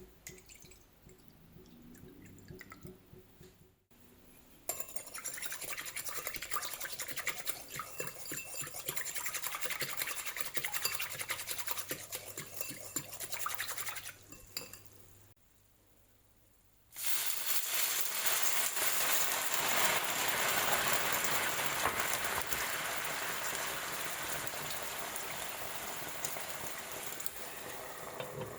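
Kitchen sounds. About five seconds in, rapid stirring and scraping in a bowl starts and runs for about ten seconds. After a short pause, a steady hiss of water sets in.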